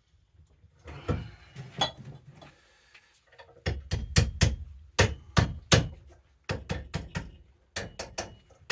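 Hammer blows on metal, about three a second, knocking a heat-loosened, seized part off an ice auger's drill bit. Lighter knocks and clatter come first, and the steady run of strikes starts about three and a half seconds in.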